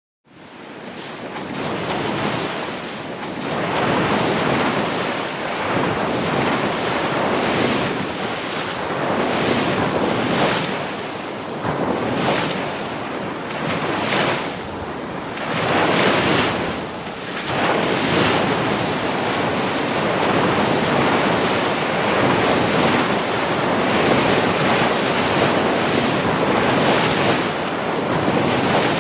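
Ocean surf: a steady rush of breaking waves that swells and eases every few seconds, with wind buffeting the microphone. It comes up out of silence just after the start.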